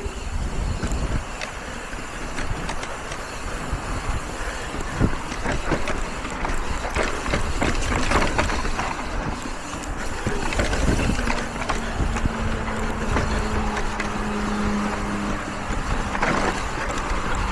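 Mountain bike riding down a rocky trail: wind rushing over the microphone, with tyre noise and scattered knocks and rattles from the bike. A steady low hum comes in about two-thirds of the way through.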